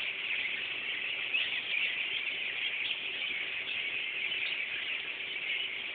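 A large flock of birds chirping all at once, a dense unbroken chatter of many overlapping high calls. A faint steady hum runs underneath.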